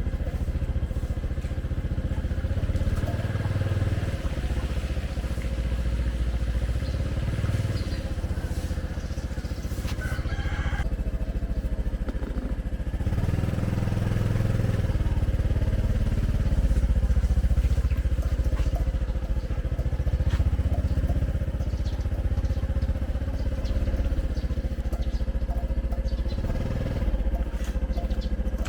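Motorcycle traffic running steadily, with a low rumble that swells and fades.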